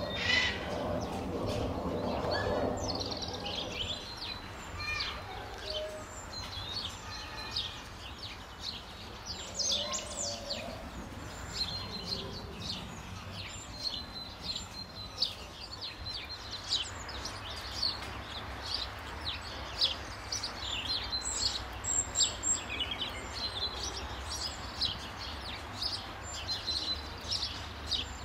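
Small birds chirping, many short high calls repeating throughout, over a steady low background hum.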